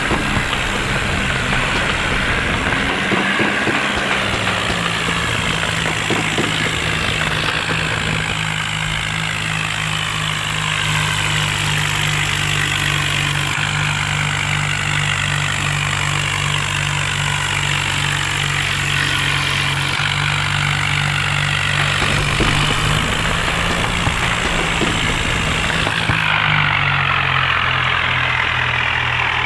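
John Deere tractor's diesel engine running steadily at low revs, its note shifting slightly up and down a few times.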